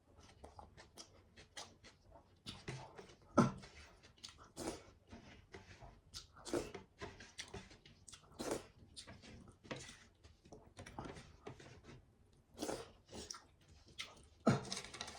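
Close-miked chewing: wet, smacking mouth sounds and small crunches, with a louder bite every second or two.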